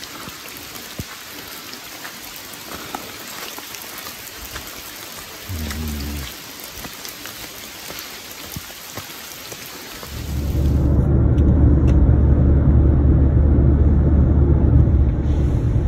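Steady rain falling on wet vegetation: an even hiss with scattered drop ticks. About ten seconds in it gives way to the louder, low drone of a car's engine and tyres heard from inside the cabin at expressway speed, which is the loudest sound.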